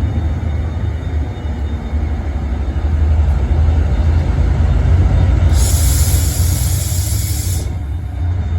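Class 68 diesel locomotives' Caterpillar V16 engines running with a steady deep rumble. About five and a half seconds in, a hiss of about two seconds sits over it.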